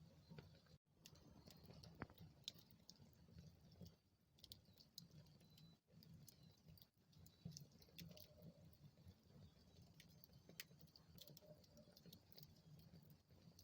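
Wood fire in a fireplace crackling faintly: scattered small pops and clicks over a steady low rumble of the burning.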